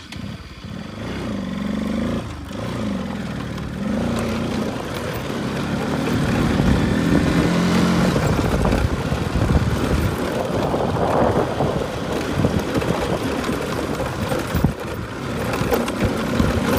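Motorcycle engine running on the move, its pitch stepping up and down with the throttle, over a steady rush of noise that grows louder about six seconds in.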